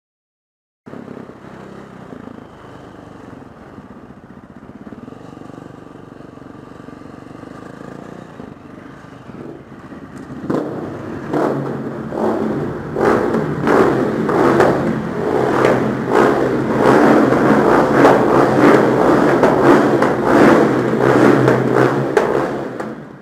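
Four-stroke enduro motorcycle engine running steadily. From about ten seconds in it gets much louder, revving hard with a lot of clatter and knocks.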